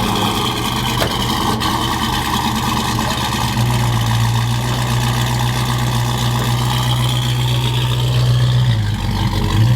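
Car engine idling steadily. Its low hum grows louder about three and a half seconds in and dips briefly near the end.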